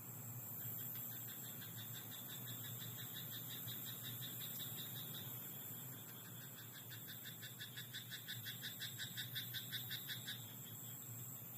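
Frog in a rice paddy croaking in a rapid, even train of pulses, about five a second, growing louder in the second half and stopping near the end, over a steady high hiss.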